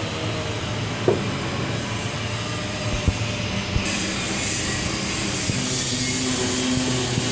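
Steady engine-room machinery noise, a loud even hiss with a low hum running under it, with a few short knocks near the start. The hiss gets brighter about halfway through.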